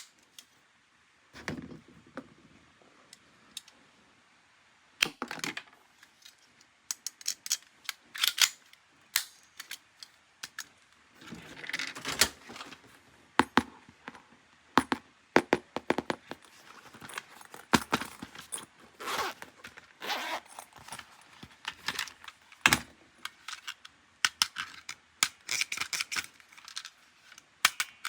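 Plastic toys and packaging being handled: irregular sharp clicks, taps and rattles with brief rustles.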